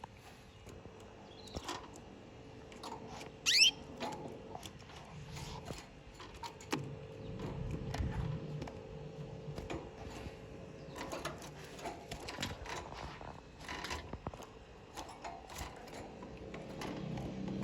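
Canaries with scattered light clicks and taps, over a steady low hum. One short rising chirp about three and a half seconds in is the loudest sound.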